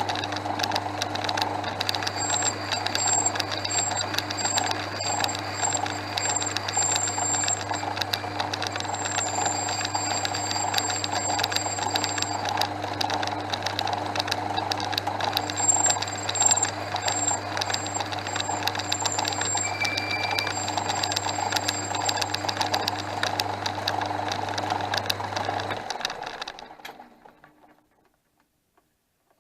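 Portass Model S lathe running steadily with a low motor hum, a busy ticking rattle from its drive, and a faint high whistle that comes and goes. Near the end the motor is switched off and the lathe winds down to a stop over a couple of seconds.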